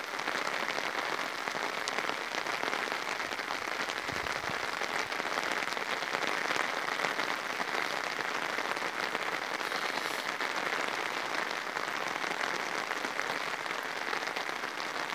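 Steady heavy rain falling and pattering on surfaces, a dense even hiss with fine drop ticks.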